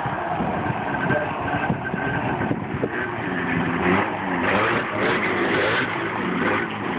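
Off-road vehicle engines running and revving, the pitch rising and falling over and over.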